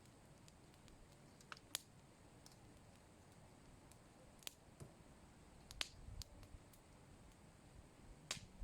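Near silence with about half a dozen faint, sharp clicks at uneven intervals, like small handling or snipping noises.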